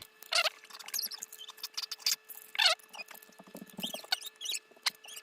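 Butter being rubbed over the inside of a crock pot's ceramic insert to grease it, giving several short high-pitched squeaks among small rubbing and clicking noises.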